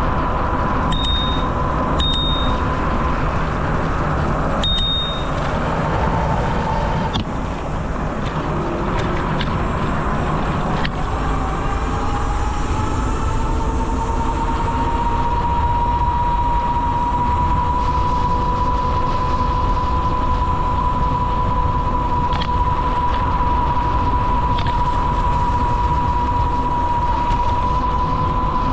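Steady rushing of wind and tyres while riding a bicycle, with a steady high whine that rises a little about halfway through and then holds. Three short high pings come in the first few seconds.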